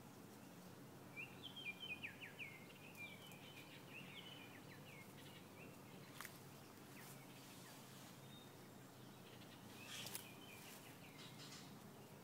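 A songbird singing faintly: a quick run of short chirping notes about a second in, and a shorter phrase near the end. There is a steady low background and a couple of soft clicks.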